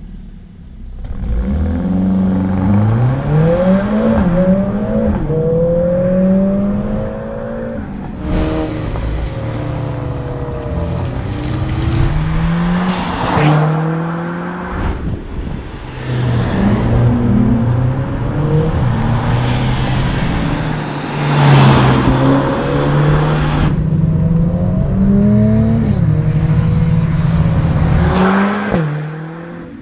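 Mercedes-AMG CLA 45 S turbocharged 2.0-litre four-cylinder through an aftermarket Milltek exhaust, revving and accelerating with its pitch climbing and dropping repeatedly, and a few brief loud rushes of noise along the way.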